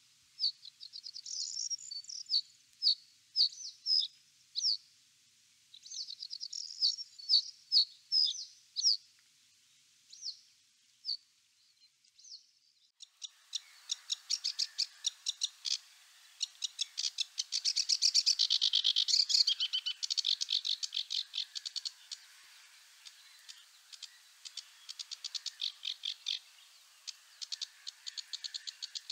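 Small birds singing: a string of separate high chirps for the first dozen seconds or so, then from about halfway a dense, rapid twittering that carries on.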